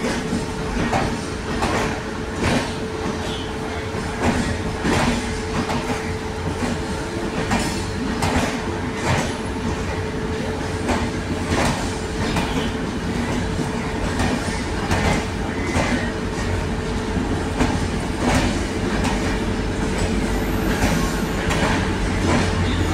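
Indian Railways LHB passenger coaches rolling past, their wheels clacking over rail joints, often in quick pairs, every second or so over a steady rumble and a steady hum.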